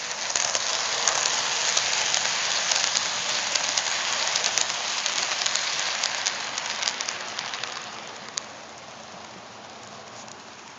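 HO-scale model train running past on the track, led by an Atlas Dash 8-40CW diesel: a steady rushing hiss of small metal wheels on rail, with rapid irregular clicks at the rail joints. It dies down about eight seconds in.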